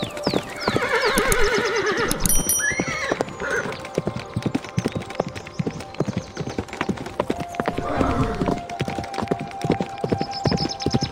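Horse whinnying: a long wavering neigh about half a second in and a shorter call around eight seconds, over a steady clip-clop of hooves.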